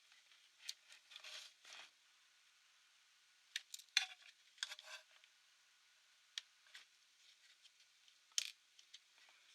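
Faint, scattered clicks and light taps of small hard parts being handled while taking a laptop apart, with the loudest clicks about four seconds in and again about eight seconds in.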